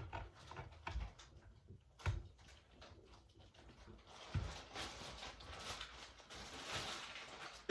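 Plastic Lego minifigures and bricks being handled: a few faint, separate clicks in the first half, then a stretch of soft rustling and rubbing from about halfway.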